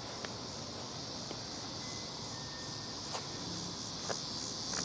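Steady outdoor chorus of insects chirring, with a few light clicks scattered through it.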